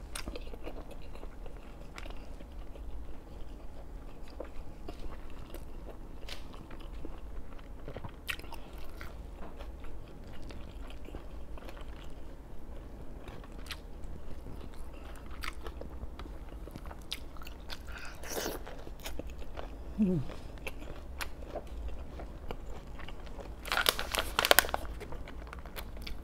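Close-up mouth sounds of eating: soft wet chewing with scattered clicks, and louder crunchy bites about 18 seconds in and again near the end, where a raw garlic clove is crunched.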